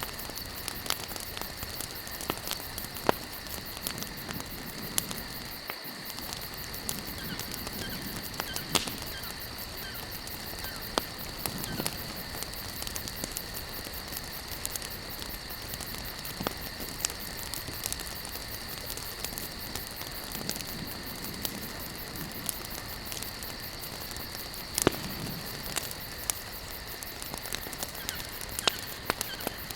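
Campfire crackling: burning wood giving irregular sharp snaps and pops over a steady hiss, with a steady high-pitched drone throughout.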